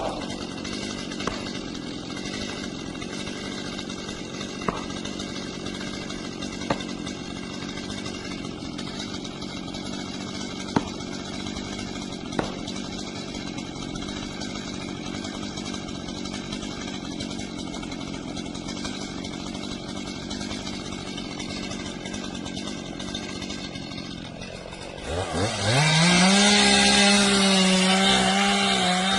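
Chainsaw running steadily, with a few sharp knocks scattered through it. About 25 seconds in it is throttled up, the pitch climbing fast to full speed and then holding there louder, wavering slightly.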